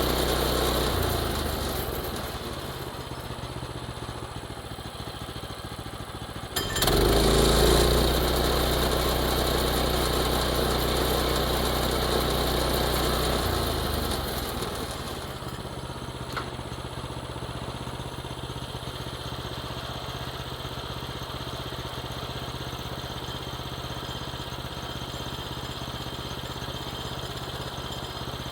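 Small engine running, dropping lower about a second in, then jumping up loudly about seven seconds in and running high until about fourteen seconds, when it settles back to a lower steady run.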